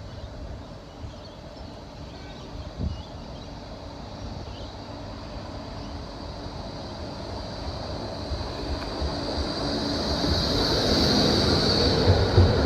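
Yarra Trams E2-class tram running on rails, its rumble growing steadily louder as it approaches, with a high steady whine that strengthens near the end and a single knock about three seconds in.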